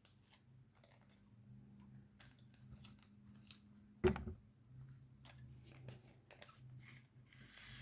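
Small tabletop handling sounds of craft supplies: scattered light clicks and soft rustles, one sharper knock about four seconds in, and a brief rustle of plastic near the end.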